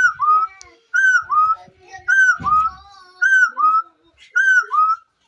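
A bird calling a repeated two-note whistle, about once a second: each note slides downward, and the second note of each pair is lower than the first. A soft low thump comes about halfway through.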